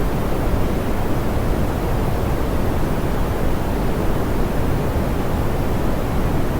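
Soft, smoothed pink noise: a steady, even rush weighted toward the low end, with little in the highs.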